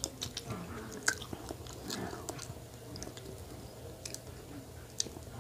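Chewing a mouthful of soft chocolate-coated, marshmallow-filled donut, with a few sharp wet mouth clicks, the loudest about a second in and another near the end.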